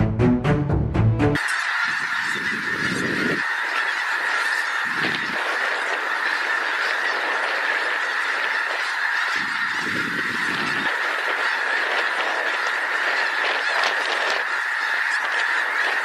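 Music cuts off about a second and a half in, giving way to a steady, dense din of a large flock of birds calling all at once.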